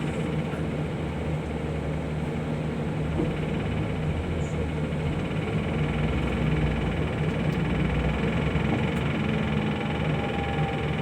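Steady engine hum and road noise heard from inside a moving vehicle, swelling slightly about halfway through.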